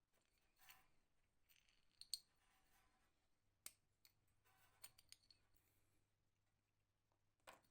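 Near silence broken by faint scattered clicks, taps and brief scrapes of small tools or parts being handled, with a faint low hum starting about halfway.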